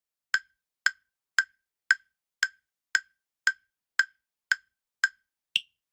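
Countdown-timer sound effect: a clock-like tick, about two a second, eleven in all. The last tick is higher-pitched and marks the end of the count.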